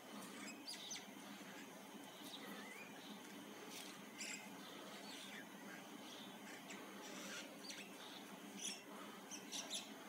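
Faint, scattered bird chirps, short high notes at irregular moments, over a low steady hum.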